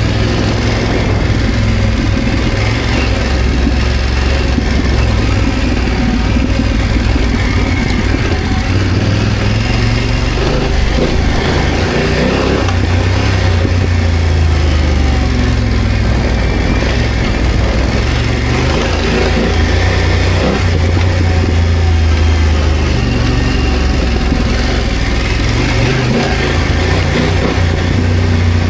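BMW F900GS motorcycle's parallel-twin engine running while being ridden, its pitch rising and falling as the throttle opens and closes.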